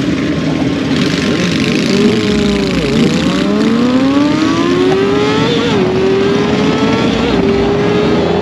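Kawasaki Ninja ZX-6R 636 inline-four engine heard from on board: the pitch sags about a third of the way in, then climbs steadily as the bike accelerates, with two quick upshifts in the second half. Wind noise rushes under it.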